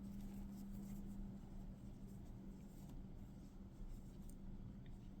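Faint rustling and small scratchy handling sounds of yarn being tied off by hand, with a few light ticks, over a steady low hum.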